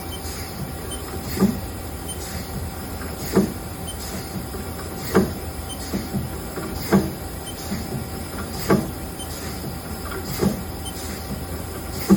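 Haas GT-20 gang tool lathe running under test, a steady hum broken by a sharp clunk about every two seconds with fainter knocks between. The machine is cycling with no air hiss from its cylinder, which the tester takes as a sound of good health.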